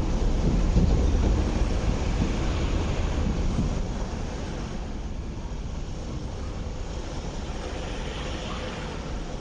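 MTR East Rail Line R-train, an electric multiple unit, rumbling along the platform as it pulls out. About four seconds in, the rumble drops away into a quieter, steady background noise.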